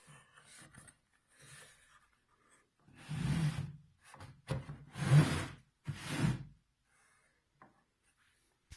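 A wooden crosscut sled being slid back and forth on a table saw top with the blade not running: wood rubbing and scraping, about four short strokes in the second half.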